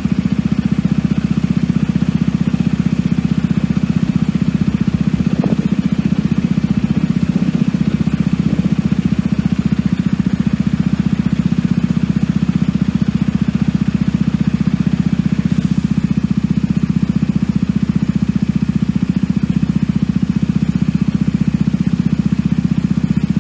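A steady, low engine hum with an even pulse, like an engine idling, unchanging throughout.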